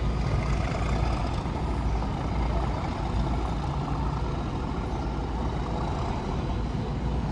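Class 37 diesel locomotive's English Electric V12 engine idling steadily, a constant low rumble.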